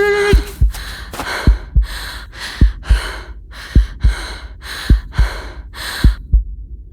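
Heartbeat sound effect, double thumps a little under once a second, under fast, heavy panting breaths. The panting stops about six seconds in, leaving the heartbeat alone.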